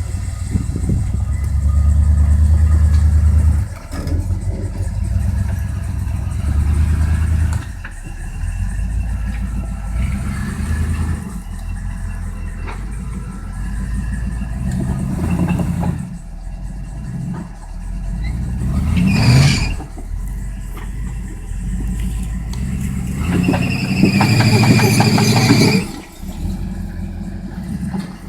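Jeep engine revving and easing off again and again as it is driven, with louder surges around twenty seconds in and again from about twenty-four to twenty-six seconds.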